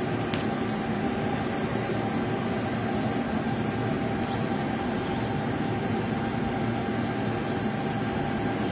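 Steady rumbling noise of a passenger train running along a station platform, with a faint constant hum and no distinct knocks or impacts.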